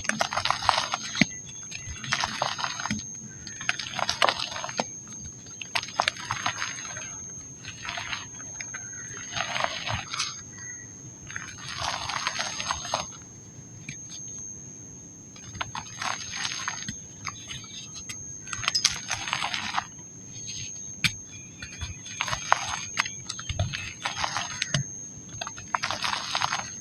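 Dry pink mud crumbling and crunching in repeated crackly bursts, about one every one to two seconds. A thin steady high whine runs under them.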